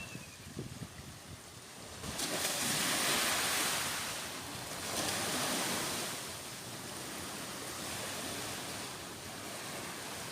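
Surf and strong wind at a beach: a rushing noise that swells in about two seconds in, peaks twice and then settles into a steady rush.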